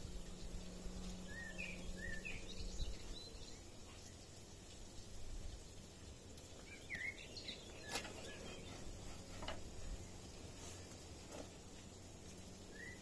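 Small birds chirping in short, quick phrases, around two seconds in, again about seven seconds in and near the end, over a faint steady outdoor background noise, with one sharp click about eight seconds in.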